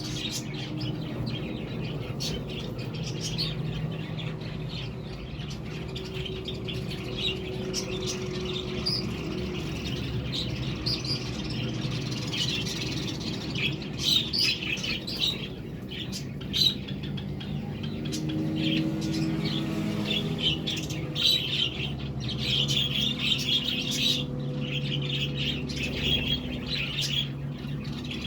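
Budgerigars (budgies) chattering: continuous rapid high chirps and warbling with occasional sharper squawks, over a low steady hum.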